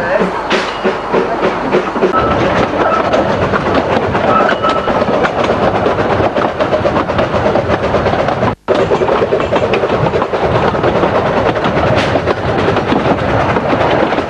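Vale of Rheidol narrow-gauge train running along the line, its wheels clattering steadily over the track. The sound cuts out for an instant about eight and a half seconds in, then carries on.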